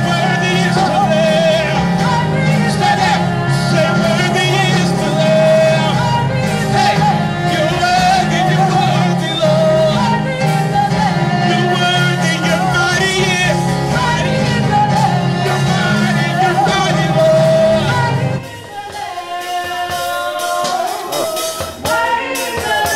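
Live gospel worship music: a band with singers. About three-quarters of the way through the bass and band drop out, leaving quieter singing voices.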